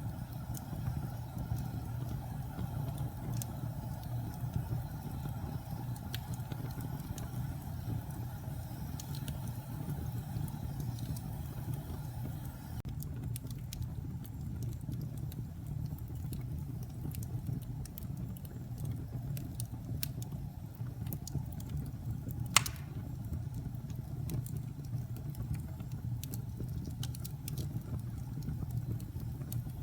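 Wood fire crackling in a fireplace: scattered small pops over a steady low rumble, with one sharper, louder pop about two-thirds of the way through.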